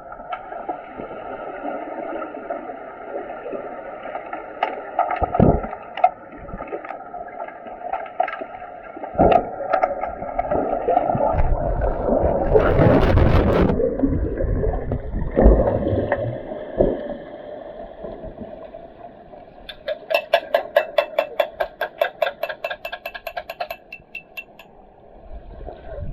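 Sounds of underwater hockey play in the water: scattered sharp clicks and knocks, typical of sticks and puck, over a steady water noise. A loud rush of water noise comes near the middle, and a rapid run of pulses, about five a second, lasts several seconds near the end.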